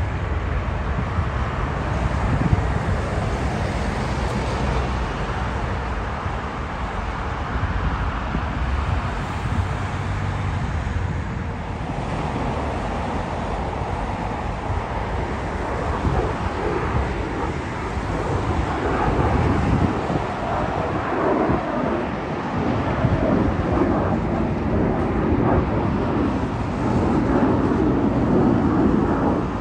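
Jet aircraft engines rumbling steadily, with wind noise on the microphone, swelling louder near the end.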